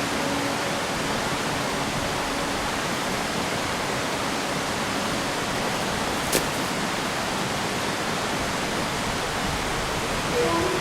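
Steady, even rushing hiss with a single sharp click about six seconds in.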